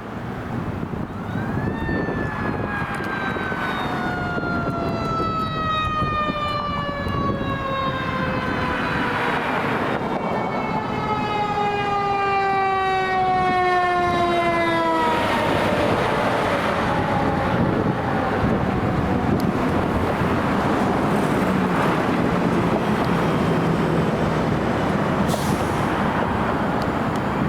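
Fire engine's siren rises in pitch, then falls slowly and steadily over about thirteen seconds, with a second tone joining partway. It fades out about halfway through, leaving the truck's engine and road noise as it drives past.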